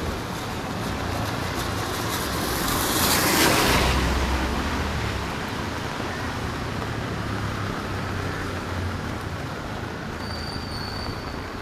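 Road traffic running steadily with a low rumble, and one vehicle passing close about three seconds in, rising and then fading.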